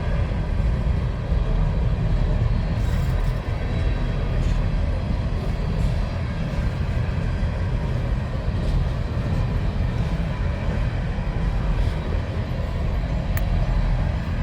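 Norfolk Southern freight train of empty mine cars rolling along the rails with a steady low rumble, and a single sharp click near the end.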